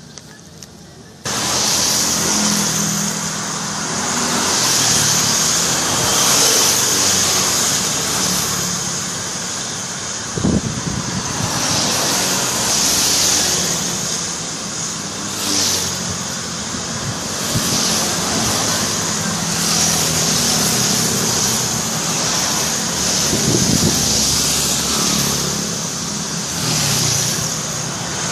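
Motor vehicle engine running amid loud road noise and hiss. The sound starts abruptly just over a second in and then holds steady.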